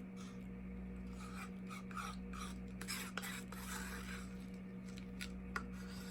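Scattered scraping and rubbing noises with a few light clicks as plastic cups of acrylic pouring paint are handled and scraped, over a steady low hum.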